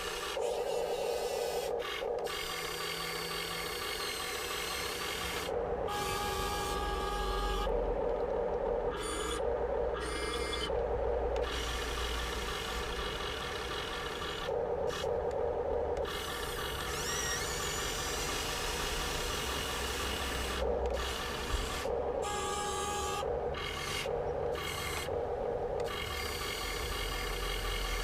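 Electric servo and metal gear drive of a Huina 1580 RC excavator, whirring in short bursts of one to two seconds that start and stop over and over as the arm, bucket and swing are moved, with a steady mechanical hum underneath.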